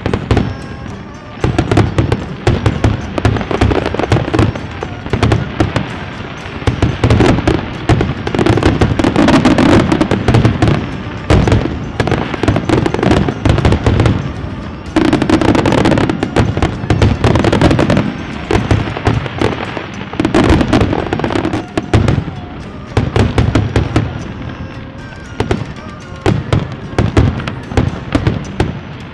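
Fireworks display going off in a dense, continuous barrage of rapid bangs and crackles, swelling and easing in waves.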